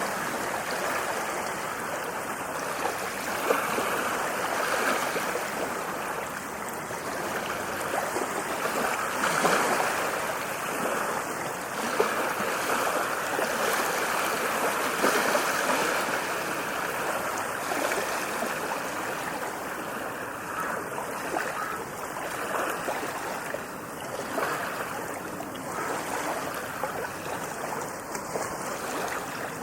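Sea waves breaking and washing up a beach: a steady rush of surf that swells and eases every few seconds.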